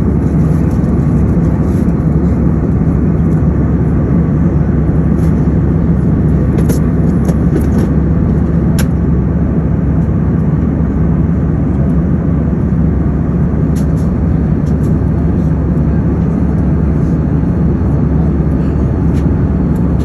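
Steady low engine drone with an even hum, unchanging throughout, and a few faint clicks in the middle.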